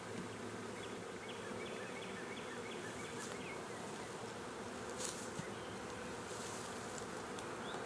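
A swarm of honey bees humming steadily around and into their new hive box as they settle in.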